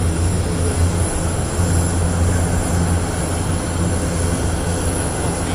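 Airbus A350-1000 jet airliner's engines heard from a distance as a steady low rumble as it approaches for its display.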